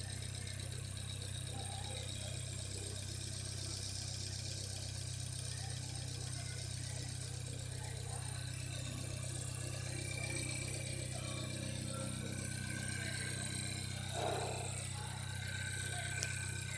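Hyundai ix35 2.0-litre four-cylinder engine idling steadily, with about 104,600 km on it.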